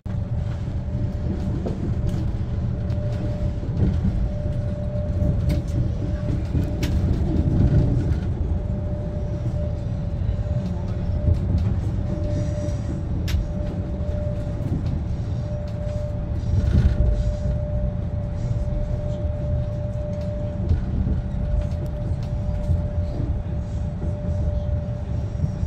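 Passenger train running over the rails, heard from inside the carriage: a steady low rumble of wheels on track with a steady high tone running through it and occasional sharp clicks.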